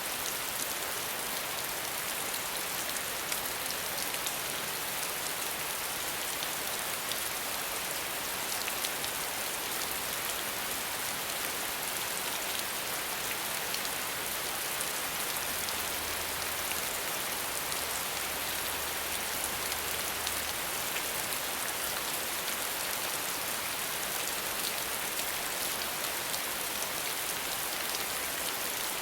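Steady rain falling, an even hiss with fine drop patter, without thunder.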